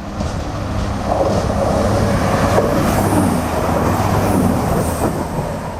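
A train running through the station: a rushing rumble of wheels on rails that builds about a second in and eases near the end, over a steady low hum.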